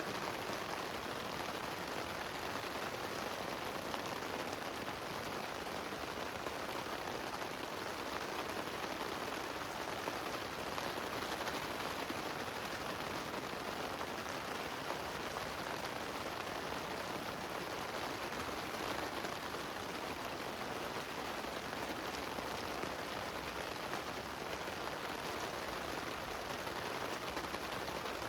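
Steady heavy rain falling on a tent: an even hiss with no let-up.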